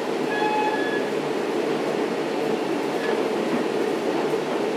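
Steady rumble of a diesel-hauled commuter train running at speed, heard from inside a C3 bilevel passenger coach.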